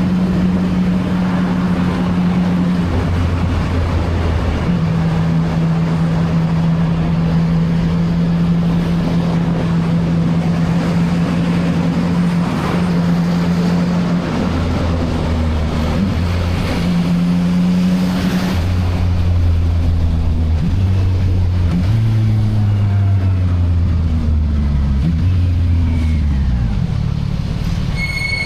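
CFMoto 675NK inline-three engine on its stock exhaust, running at a steady cruise with its pitch stepping between speeds. Near the end it falls in a few drops as the bike slows, with wind noise on the microphone.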